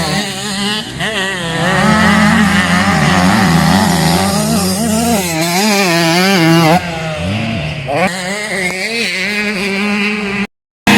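Motocross bike engines revving hard, the pitch rising and falling with throttle and gear changes. Near the middle the engine note drops and falls away as a bike passes, and the sound cuts off suddenly about ten and a half seconds in.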